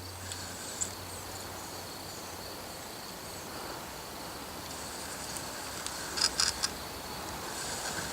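Woodland ambience: a steady high-pitched chorus of calling insects, with a short cluster of sharp clicks about six seconds in.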